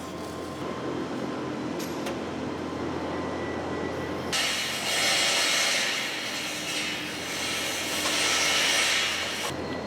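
Semi-automatic (MIG) welding: a steady machine hum, then about four seconds in the welding arc starts with a loud hiss that runs for about five seconds and cuts off near the end.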